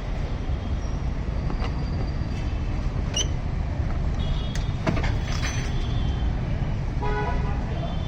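Steady low rumble of motor vehicle engines, with a few faint short high-pitched tones like distant horns and light clicks over it.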